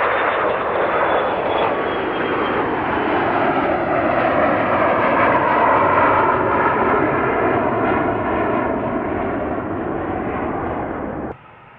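A fixed-wing aircraft passing close by. Its engine noise is loud, swells to a peak around the middle with a slowly sweeping whoosh, and cuts off abruptly near the end.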